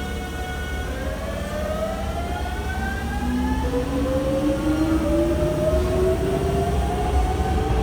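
Hankyu electric train pulling out: the inverter motor whine rises in pitch in several tones together as the train accelerates, over a low rumble.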